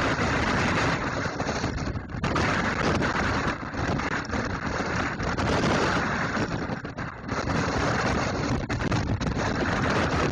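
Typhoon wind and driving rain hitting the microphone: a loud, steady rush of noise that eases briefly every few seconds as the gusts rise and fall.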